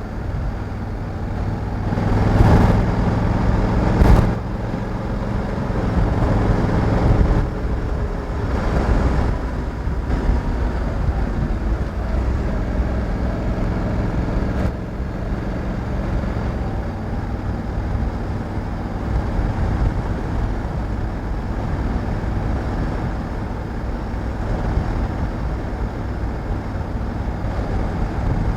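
Honda Africa Twin 1100's parallel-twin engine running as the motorcycle is ridden, under steady wind and road noise. It grows louder from about two to seven seconds in, with a brief sharp sound about four seconds in.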